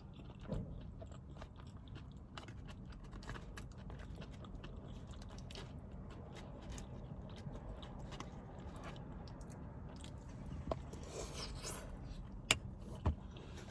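A person chewing and biting food, with many small mouth clicks and a few sharper clicks near the end.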